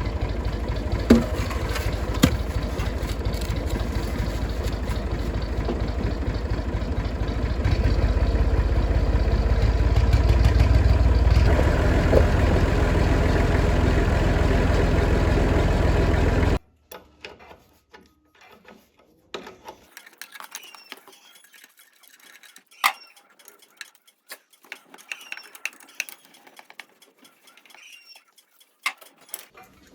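Massey Ferguson 50X tractor engine running steadily, getting louder about eight seconds in, then cutting off suddenly. Afterwards there are faint scattered clicks and bird chirps.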